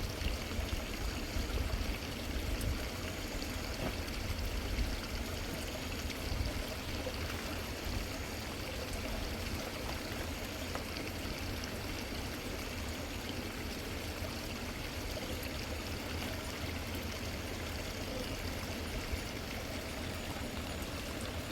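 Fast-flowing river water rushing steadily, with uneven low rumbles in the first several seconds.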